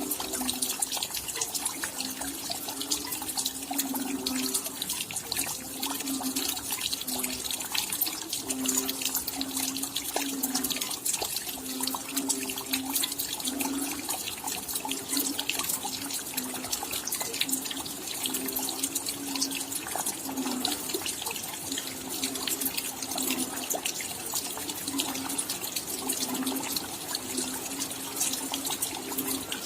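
Rain falling steadily, a dense patter of small drops, over a low, irregular plopping of water dripping.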